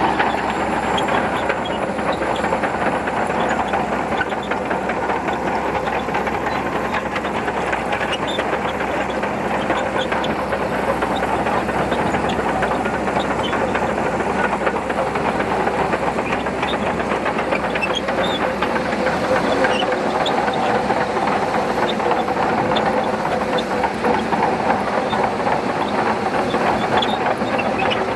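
Shantui DH17C2 crawler bulldozer running steadily while working, its engine noise mixed with a constant light clatter of the steel tracks.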